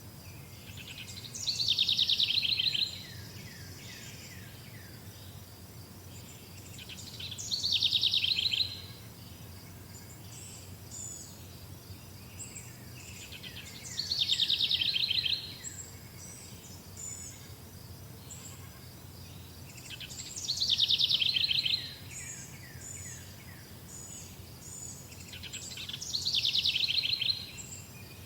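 A songbird repeats one short, quickly falling song phrase five times, about every six seconds, with faint high chirps from other birds in between. A steady high insect drone and a low rumble run underneath.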